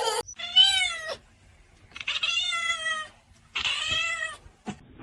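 A cat meowing three times: long, drawn-out meows about a second each, with a short click just after the last one.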